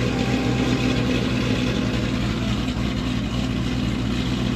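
A car engine idling steadily, with no revving.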